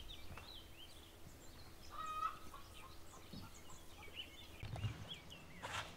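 Birds calling, with many short chirping notes that rise and fall quickly and one louder, lower call about two seconds in. A short sharp sound comes near the end.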